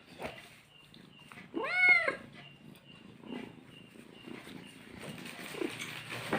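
A house cat meows once, a single call that rises and falls in pitch, about two seconds in, amid faint rustling.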